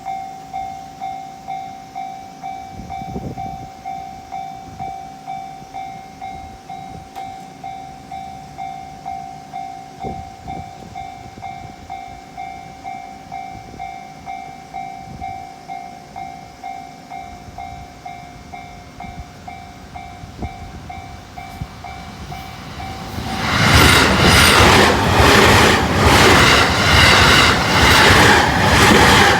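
Level-crossing warning bell ringing steadily in even electronic strikes, about one and a half a second. About three-quarters of the way through, a limited express train passes through the crossing much louder, its wheels clattering in a quick, regular rhythm as the cars go by.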